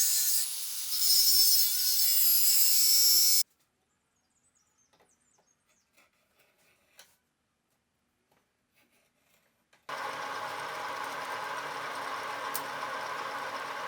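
A power tool cutting or grinding steel, a loud hissing rasp that cuts off abruptly about three seconds in. After several seconds of near silence with a few faint clicks, a workshop machine starts a steady running hum about ten seconds in.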